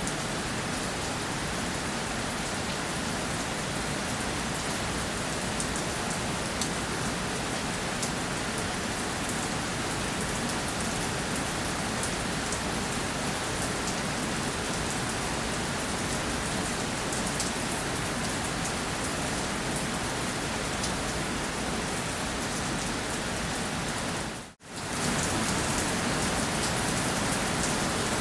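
Steady rainfall: a dense, even hiss of rain with scattered drops ticking through it. About three-quarters of the way through it briefly cuts out for a split second and comes straight back.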